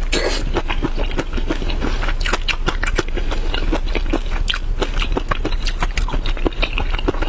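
Close-miked biting and chewing of sauce-coated shrimp: a dense run of small wet clicks and crackles, along with the shell being cracked and peeled by hand.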